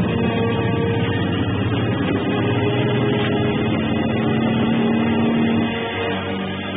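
Car engines running hard at speed, a steady drone, with music underneath; it eases slightly near the end.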